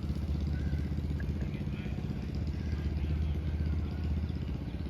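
Antique engine running steadily with a fast, even beat.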